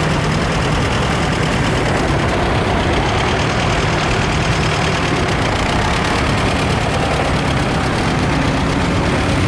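Vintage farm tractor engine running steadily at low speed, with an even, unbroken beat.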